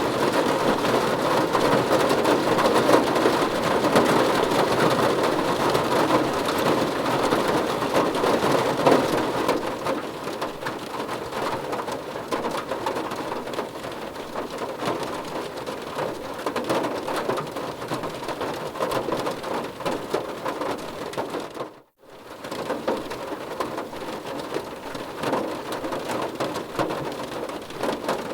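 Rain falling on a car's roof and windows, heard from inside the car: a dense, steady patter of drops. The rain eases a little about a third of the way in, and the sound cuts out for a split second about three quarters of the way through.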